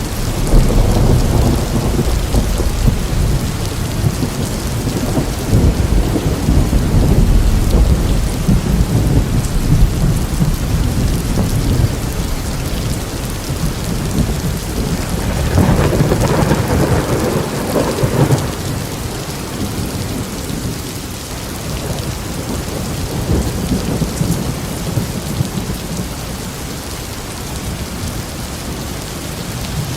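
Steady heavy rain with rolling thunder. The rumbling is strongest over the first ten seconds, swells again about halfway through, then eases off before building once more at the end.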